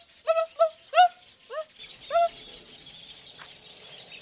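A bird calling: a quick series of short notes that rise and then level off, about three a second, stopping about two seconds in, followed by steady outdoor background noise.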